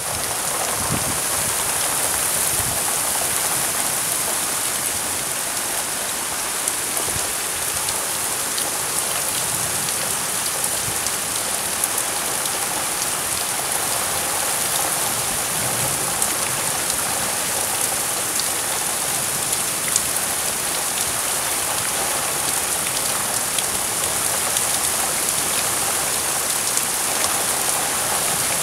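Heavy thunderstorm rain pouring down steadily, a constant hiss of downpour with scattered sharper drop ticks close by.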